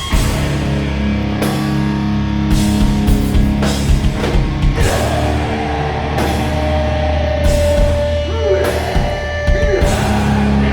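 Grindcore band playing live at full volume: heavily distorted guitar and bass held under irregular drum and cymbal hits, with a high sustained tone about halfway through that wavers in pitch near the end.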